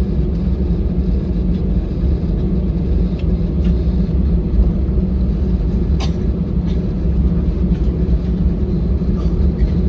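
Steady low rumble of an Airbus A321 heard inside the passenger cabin: engine and airframe noise, with a few faint clicks.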